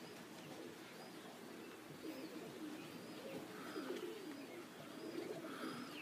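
Domestic pigeons cooing softly, with repeated low warbling coos starting about two seconds in.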